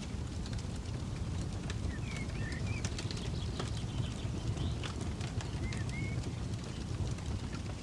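Campfire crackling with irregular sharp pops, over a steady low rumble. A bird chirps a few short notes about two seconds in and again near six seconds.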